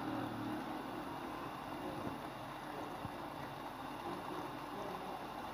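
A spiced turnip and potato mash frying in oil in a pan, with a steady sizzle. The oil has begun to separate from the masala, the sign that the frying-down stage is nearly done. A couple of faint knocks come about two and three seconds in.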